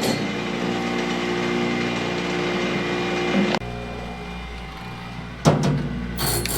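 A machine running with a steady, humming drone; the sound changes abruptly a little past halfway to a different, lower hum, and there are two short knocks near the end.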